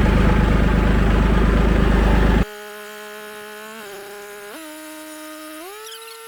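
Kubota L2501 compact tractor's diesel engine running steadily for about two and a half seconds, then cut off abruptly by a much quieter, thin buzzing whine that dips in pitch and rises back up near the end.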